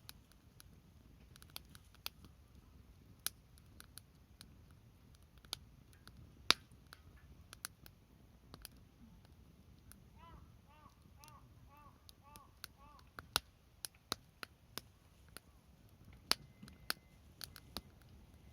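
Wood fire crackling, with sharp snaps and pops at irregular intervals, one loud pop about six seconds in. Roughly halfway through, a bird calls a quick run of about seven short notes.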